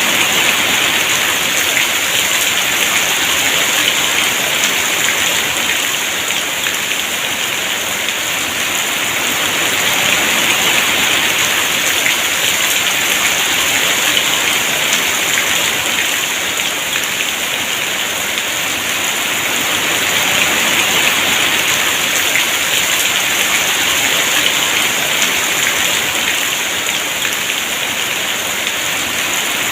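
Heavy rain falling steadily, a dense even hiss that swells and eases gently every few seconds.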